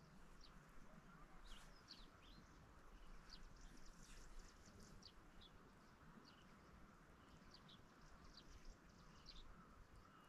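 Faint songbird chirps: many short, high calls scattered irregularly, over a faint steady background hiss.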